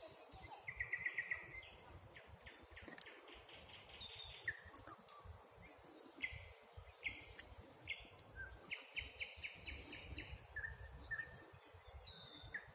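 Several small birds singing and calling together: short rapid trills and high chirps overlapping, over a low rumbling noise.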